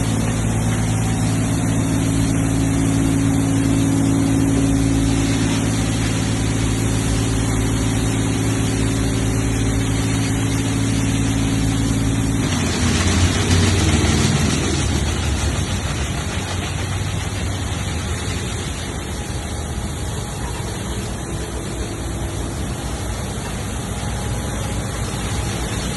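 Steady machine drone holding one pitch, which changes abruptly about halfway through with a brief shift in pitch, then gives way to a steady rushing noise.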